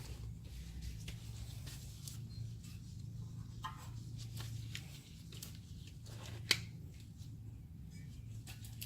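Faint scattered clicks and scrapes of a tool turning the star-wheel adjuster of the rear drum-in-hat parking-brake shoes, with one sharper click about six and a half seconds in, over a steady low hum.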